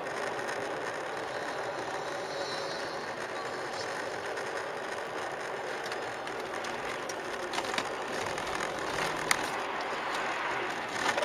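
Steady road and vehicle noise, as picked up by a recording vehicle's camera, with a few sharp clicks near the end.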